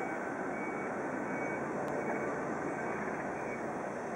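Steady rumble and hiss of a train running on the line, with no clear rhythm or breaks.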